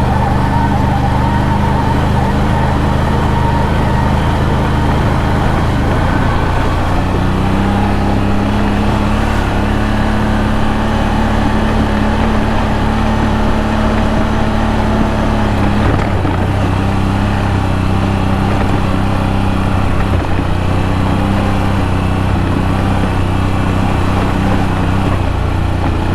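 ATV V-twin engine (CFMOTO CFORCE 1000 Overland) running steadily under load through deep mud. Its engine note shifts about seven seconds in and again about sixteen seconds in.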